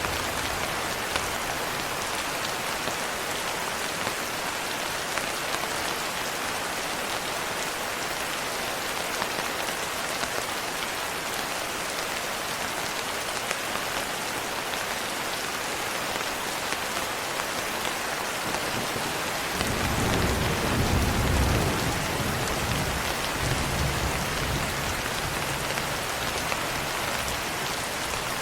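Steady rain falling, with a low rumble of distant thunder rising about two-thirds of the way through and fading over several seconds.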